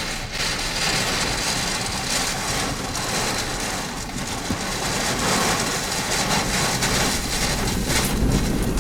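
Steady, loud rushing noise of storm and road heard from inside a vehicle driving through a severe thunderstorm at night.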